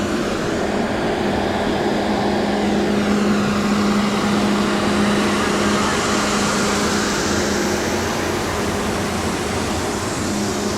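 Fan-type snowmaking gun blowing: a steady loud hiss over a low hum, swelling slightly around the middle and easing toward the end.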